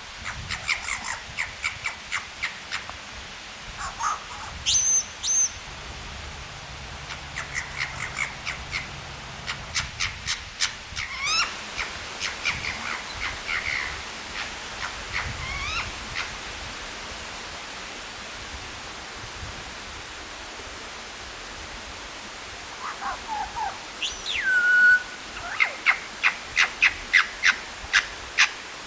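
Superb lyrebird singing: loud, varied whistles, sweeping notes and fast runs of sharp repeated notes in bursts. There is a quieter gap past the middle, and a quick run of sharp notes near the end.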